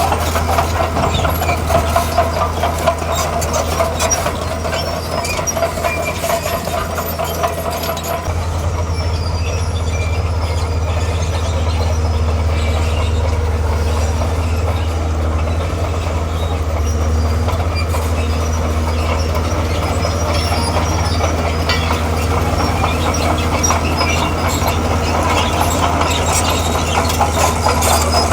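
Heavy diesel engine of a tracked earthmoving machine running steadily, with the clanking and rattling of steel crawler tracks over roughly the first eight seconds and again near the end.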